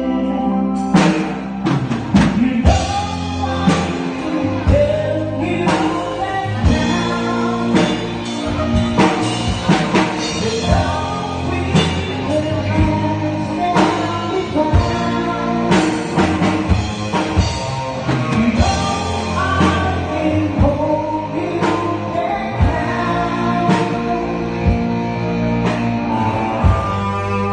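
A live band playing a pop-rock song through a PA system, with a drum kit keeping a steady beat under bass and guitar, and a singer's voice.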